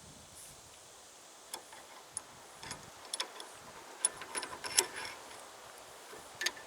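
Scattered sharp metallic clicks and ticks from a 3/4-inch, 14-thread pipe tap being turned by hand to cut threads in a metal pipe fitting. The clicks are bunched between about a second and a half and five seconds in, with one more near the end.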